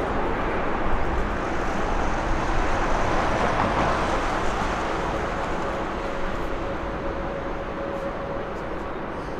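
Jet airliner engines, a steady rushing noise with a faint steady whine, slowly fading.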